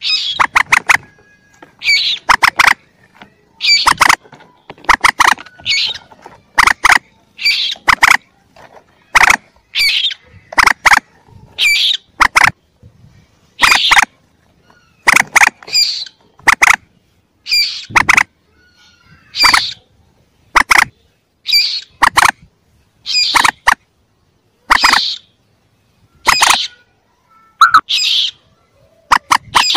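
Lure-call recording of young mandar (rails, such as the common moorhen): short, sharp, high calls repeated about once or twice a second, often in quick pairs or triplets.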